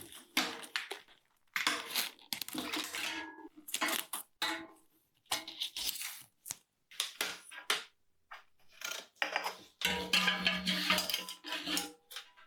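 Small metal tools and parts clinking and clattering in irregular bursts as they are handled.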